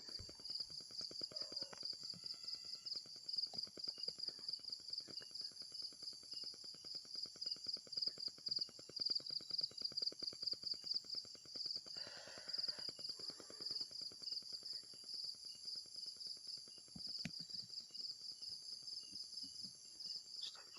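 Night insects, crickets, chirping in a steady, fast pulsing trill, with a brief rustle about twelve seconds in.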